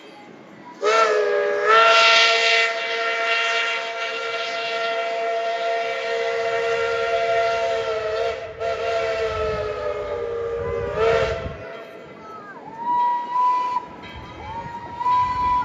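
Steam locomotive's chime whistle blown in one long blast of about ten seconds, several notes sounding together, with the pitch sagging briefly as it opens and closes. A low rumble runs under its second half.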